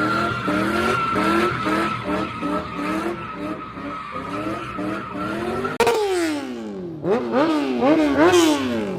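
Car engine revving up and down in quick repeated pulses, about two a second, over a steady tire squeal as the car slides in a burnout or donut. Near six seconds the sound changes abruptly into one long falling rev, then wider, faster rev swings.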